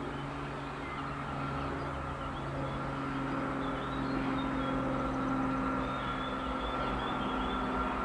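An electric train approaching on a high-speed line: a steady hum with a few even tones that slowly grows louder.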